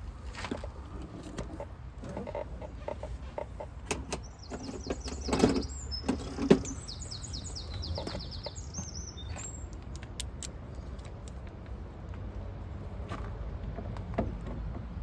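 A small bird singing a fast run of high repeated notes for about five seconds in the middle, over scattered knocks and clicks of work, with two louder knocks in the middle and a low steady rumble throughout.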